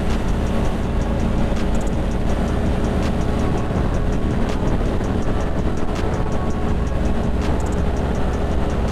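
Ducati Monster 620's air-cooled V-twin running at a steady cruise, with a continuous low engine note and road noise.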